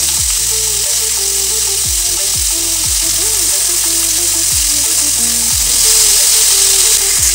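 Vegetables sizzling in hot oil in a kadhai as potato pieces are dropped in, a steady frying hiss. Background music with a bass line plays underneath.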